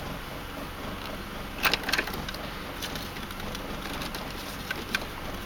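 Toyota 1FZ-FE 4.5-litre inline-six idling steadily, with a few light clicks about a second and a half and two seconds in, and again near the end.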